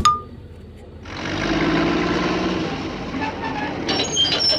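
Motor-vehicle engine sound, likely a truck, starting about a second in and running steadily, with a few clicks near the end.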